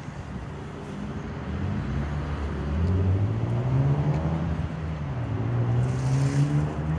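A car engine whose pitch climbs over a couple of seconds, falls back, then climbs again, as in revving or accelerating.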